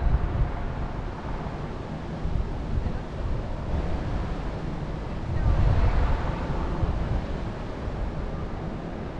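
Wind gusting through forest trees and buffeting the microphone with a low rumble. A stronger gust swells about five and a half seconds in and then eases.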